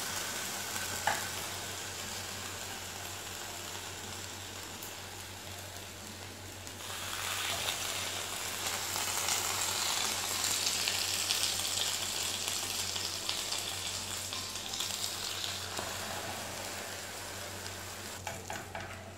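Egg-dipped bread slices frying in butter on a flat nonstick pan: a steady sizzle that grows louder about seven seconds in as another soaked slice goes onto the pan, then eases off toward the end.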